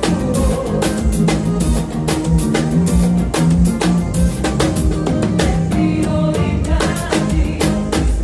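Drum kit played in a steady groove with a bass line and other pitched instruments: a band playing through a song.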